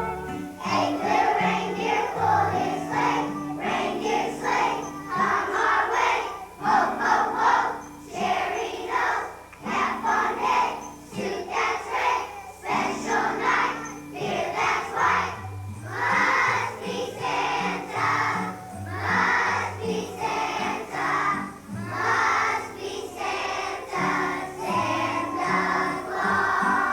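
Children's choir singing a song over instrumental accompaniment with a steady bass line.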